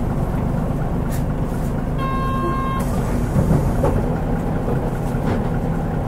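Mitsubishi Fuso Aero Star bus with a 6M70 turbocharged six-cylinder diesel, running with a steady low engine and road rumble. About two seconds in, a short electronic beep sounds for under a second.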